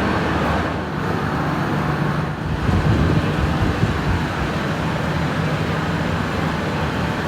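Frecciarossa 1000 high-speed train running, a steady rumble and rush of noise with a low hum.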